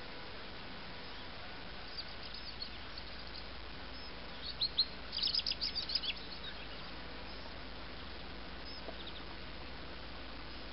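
A small bird chirping: scattered high chirps, with a quick run of chirps about halfway through, over a steady background hiss.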